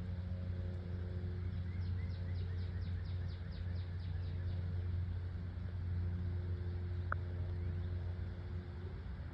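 Steady low rumble of road traffic. A bird trills a run of about a dozen quick down-slurred notes, about four a second, starting a second or two in, and gives one short high chirp later.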